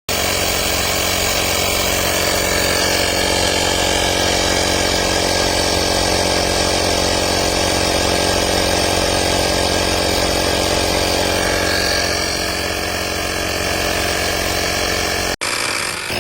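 AstroAI 12 V portable tire inflator's electric piston compressor running, a steady loud mechanical drone. It cuts off suddenly near the end, comes back for a moment, then stops.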